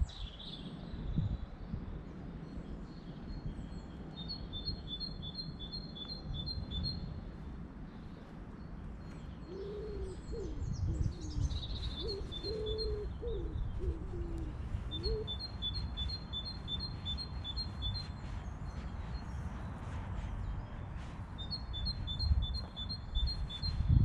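Birdsong: a songbird sings three bouts of a quick phrase of paired high notes, alternating between two pitches and repeated about eight times per bout. A few short, low notes sound near the middle, over a steady low rumble.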